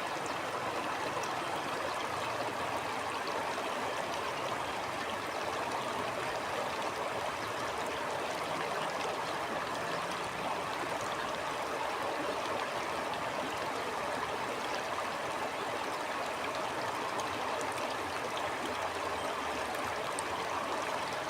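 Stream water flowing and babbling steadily, an even rushing with fine gurgling detail.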